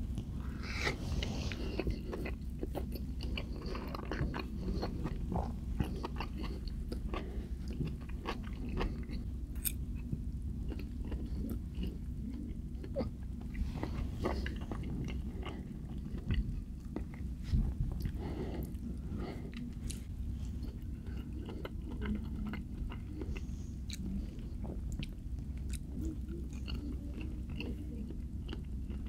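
A person chewing and biting food close to the microphone, with many short mouth clicks and smacks throughout, over a steady low hum.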